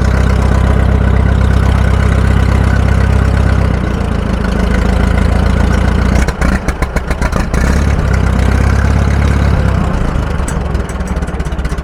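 Engine just fired up and running loud, with a brief uneven, sputtering stretch about six seconds in before it steadies again, then quieter near the end.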